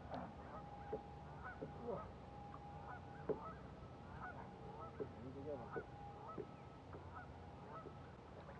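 Repeated short honking bird calls, faint, over a steady low hum, with one sharp click a little past three seconds in.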